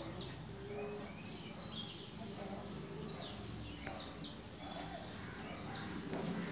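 Small birds chirping in the background: short, high, downward-sliding chirps about once a second over a steady low background noise.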